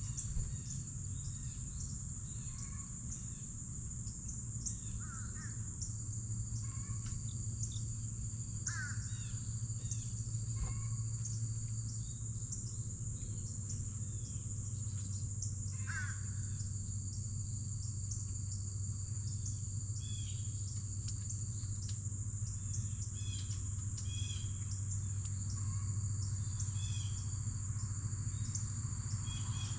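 A steady high-pitched insect chorus runs throughout, with scattered short bird chirps and calls over it, and a steady low hum underneath.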